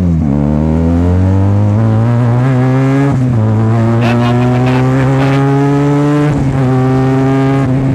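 Benelli TNT 300's parallel-twin engine, loud through a free-flow slip-on exhaust, pulling up through the gears: the pitch climbs steadily and drops with an upshift at the start, about three seconds in, and again about six seconds in.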